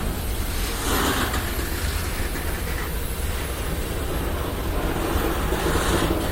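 Freight train cars rolling along the track: a steady low rumble of wheels on rail, with the wheel noise swelling briefly about a second in and again near the end.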